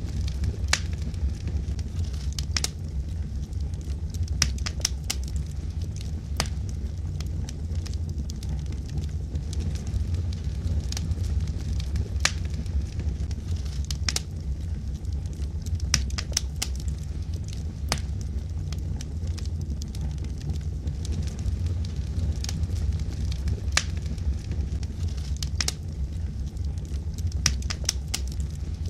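Wood fire burning logs in a fireplace: irregular sharp crackles and pops, several a second at times, over a steady low rumble of the flames.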